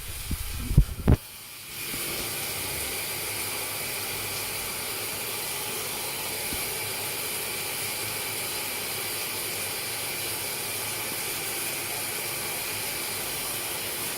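Water being turned on: two short knocks, then running water starts about two seconds in and goes on as a steady hiss.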